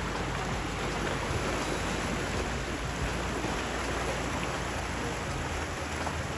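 Steady rushing noise of wind and sea water.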